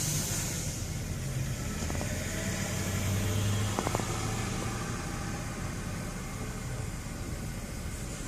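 Heavy truck engine running at low revs with a steady low hum. A short burst of hiss at the very start fades out, and a few light clicks come about four seconds in.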